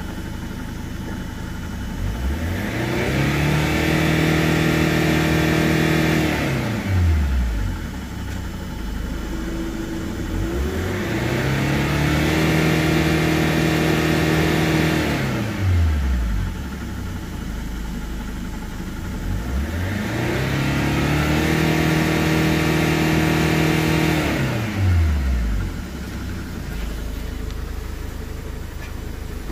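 2007 Chevrolet Captiva's four-cylinder turbo-diesel engine revved three times with the vehicle standing still. Each time it climbs to around 5000 rpm, holds there for a few seconds, then drops back to a steady idle when released.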